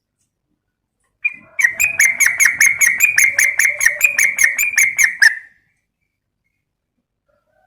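Yellow-vented bulbul (trucukan) calling: a fast, even run of sharp chattering notes, about four or five a second, starting about a second in and lasting some four seconds.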